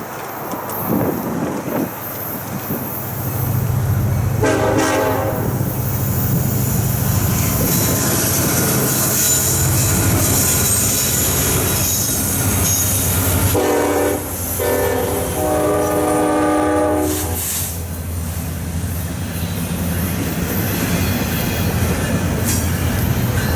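Freight train passing: the diesel locomotives run with a steady low drone while steel wheels squeal and hiss on the rails. The locomotive's air horn sounds one blast about four seconds in, then a group of blasts around fourteen to seventeen seconds in, the last one longest, each blast several notes at once.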